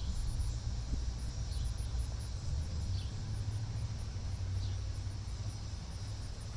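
Insects chirping in short, high pulses over a steady low rumble, with a few faint falling chirps.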